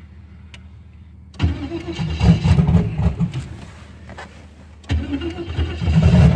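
Turbocharged LS V8 cold-started twice: cranked, it catches and fires briefly about a second and a half in, then dies, and does the same again near the end. It wants to fire but won't stay running, which the owner puts down to too little cold-start fuel enrichment.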